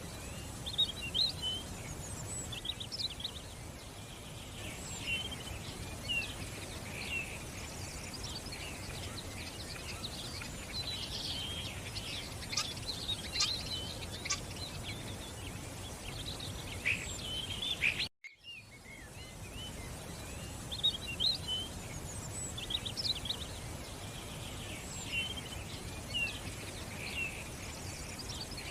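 Small birds chirping and singing over a steady murmur of running water. The sound cuts out briefly about eighteen seconds in, then starts again.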